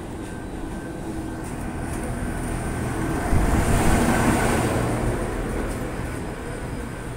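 Queensland Rail diesel tilt train (Spirit of Queensland) passing close by, its rumble and wheel noise building to a peak about three and a half seconds in, then easing as the carriages roll past.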